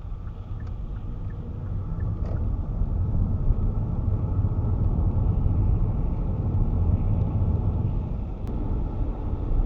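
Car driving, heard from inside the cabin: a low road and engine rumble that grows louder over the first few seconds as the car picks up speed, then holds. The turn-signal relay ticks about twice a second and stops about two seconds in.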